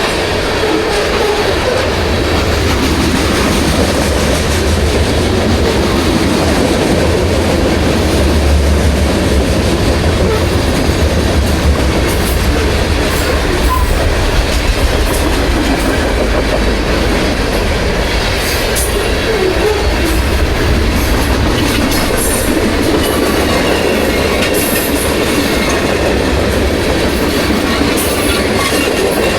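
CSX freight train passing at track speed: a steady, loud rumble of steel wheels on the rails, with scattered clicks in the second half.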